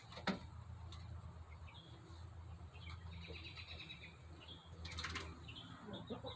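Faint bird chirps, with a short rapid trill about three seconds in. A sharp knock comes just after the start, and a couple of clicks about five seconds in.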